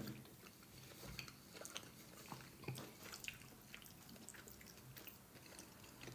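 Faint chewing of soft gnocchi, with scattered small clicks of a fork in a ceramic bowl.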